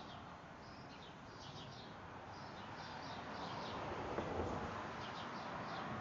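Songbirds chirping in short, quick, high-pitched phrases that repeat in little clusters, over a steady outdoor background noise.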